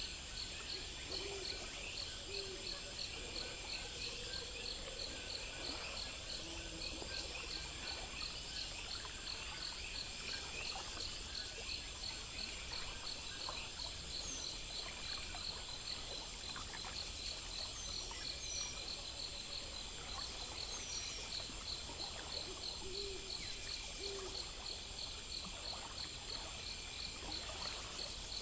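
Nighttime insect chorus, crickets chirping in rapid steady pulses, with a few short rising bird whistles scattered through.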